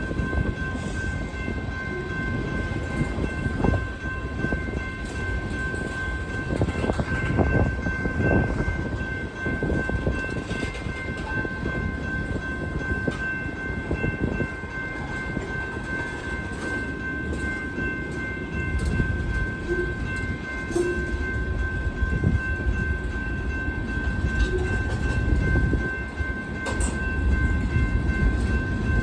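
Freight train's cars rolling past, a continuous low rumble broken by irregular clicks and knocks of wheels over the rail. A thin, steady high-pitched whine is held throughout.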